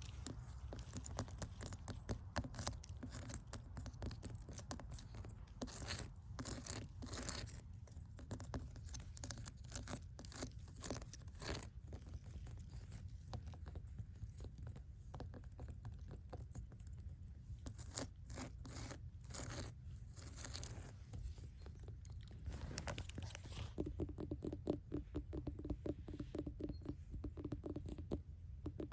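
Close-up scratching and scraping with many irregular light taps, like fingernails worked over a rough surface. A denser, quicker rasp comes near the end.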